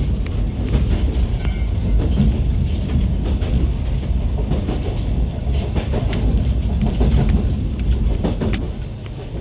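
Narrow-gauge Yokkaichi Asunarou Railway train running between stations, heard from inside the carriage: a steady rumble of wheels and running gear with scattered clicks from the rail joints.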